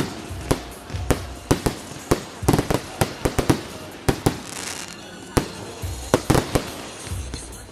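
Fireworks going off: an irregular string of sharp bangs, many in quick runs of several, with a short lull a little past the middle.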